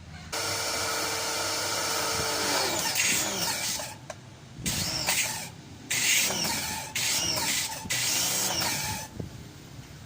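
Kawasaki pressure washer being test-run: the motor starts with a spraying hiss and runs steadily, its note sagging about three seconds in. It then comes on in three short bursts of about a second each, the motor pitch rising and falling with each one, as the spray gun trigger is squeezed and let go.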